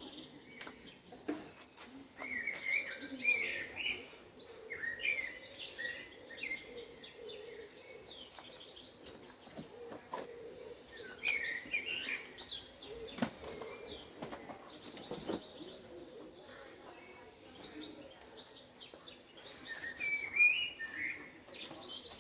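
Small birds chirping and singing in short, repeated phrases, with louder bursts about two seconds in, around eleven seconds in and near the end, over a faint steady background hum.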